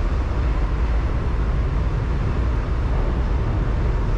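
Steady, loud low rumble with a rushing noise from a large vehicle in motion.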